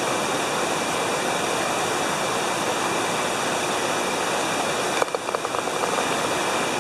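Steady rushing of an artificial waterfall and stream, with a short run of faint clicks about five seconds in.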